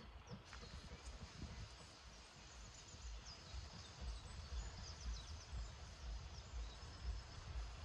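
Quiet outdoor ambience with small birds chirping, over faint irregular low rumbling pulses.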